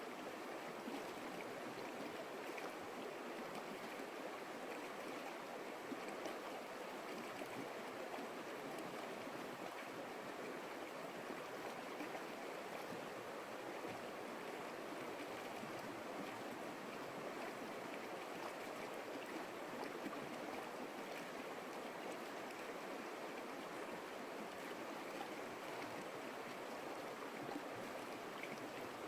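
Stream water flowing steadily, an even rushing sound with no breaks.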